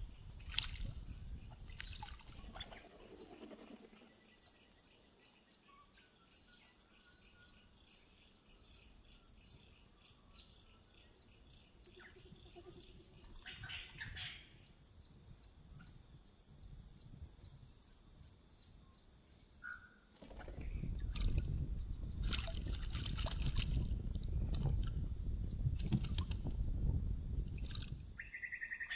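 Wild birds calling: a short high chirp repeated several times a second throughout, with other scattered calls over it, and a low rumble from about two-thirds of the way in until near the end.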